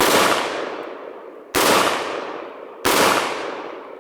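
Semi-automatic shotgun loaded with bird shot fired three times, the shots about a second and a half apart, each trailing off in a long echo.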